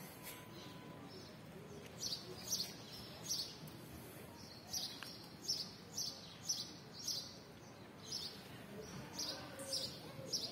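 Small birds chirping: a run of short, high chirps, about two a second, starting about two seconds in, over faint steady background noise.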